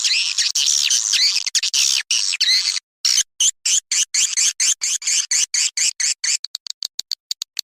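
Swiftlet lure call: a recording of swiftlet twittering of the kind played to draw swiftlets into a nesting house, dense high chirps broken by short silences, turning into a fast run of short chirps near the end.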